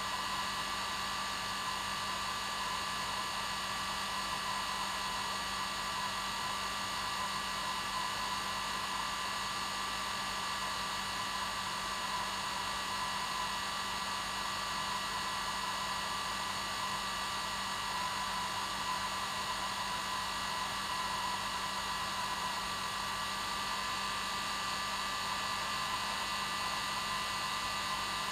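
Hair dryer running steadily: an even rush of air with a constant motor whine, used as white noise to lull a baby to sleep.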